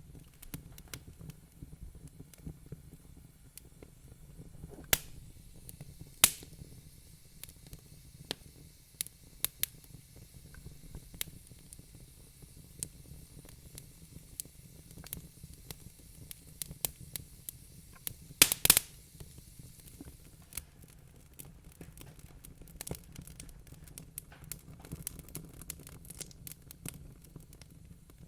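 Wood fire crackling in a fireplace: scattered sharp pops and snaps over a low steady rumble of the burning, with louder pops at about five and six seconds and a quick cluster of pops a little past halfway.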